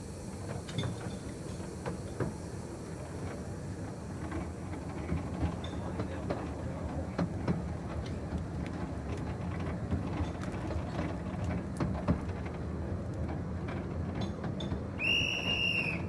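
Coaches of a 15-inch gauge miniature railway train running past close by: a steady rumble of wheels on rail with irregular clicks and knocks from the running gear and rail joints. A brief high tone sounds near the end.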